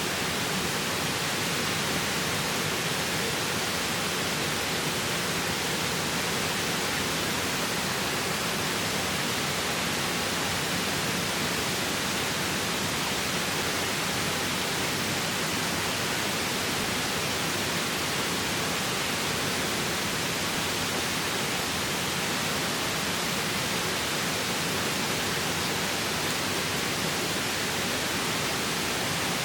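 Steady rushing of a river's flowing water, an even, unbroken wash of noise.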